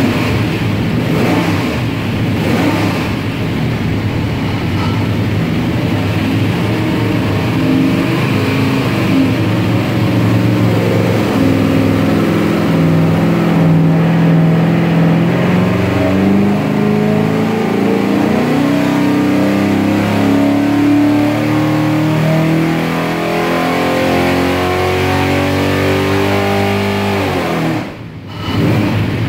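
489ci big block Chevy stroker V8 running under load on an engine dyno. The revs climb steadily through a long wide-open-throttle pull for about fifteen seconds. Near the end the throttle closes and the revs fall away suddenly.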